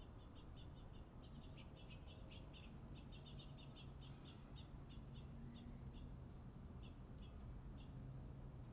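Faint, rapid high chirps of small songbirds, coming thick and fast at first, then thinning to a few scattered chips and stopping near the end.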